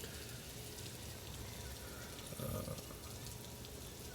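Steady hiss of hurricane rain and wind, with a brief low swell about two and a half seconds in.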